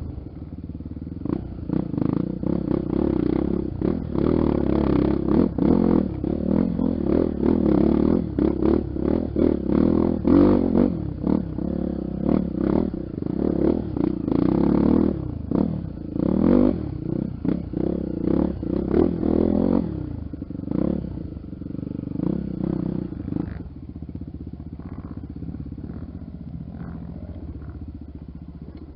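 Honda XR 250 Tornado's single-cylinder four-stroke engine on the move, its note rising and falling over and over with short knocks among it. About two-thirds of the way through it settles to a quieter, steadier run.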